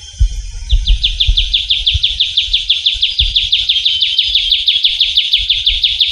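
Trilling shrike-babbler singing: one long, even trill of rapid down-slurred notes, about seven a second, starting just under a second in.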